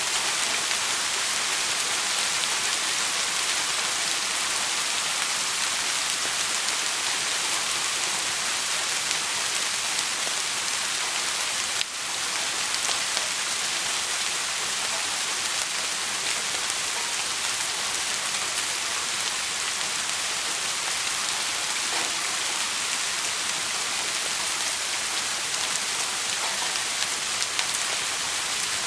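Steady rain, an even hiss of many drops falling on a surface, with one brief dip in level about twelve seconds in.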